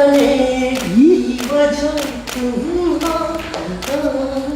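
A voice singing a melody, holding and sliding between notes, over a steady beat.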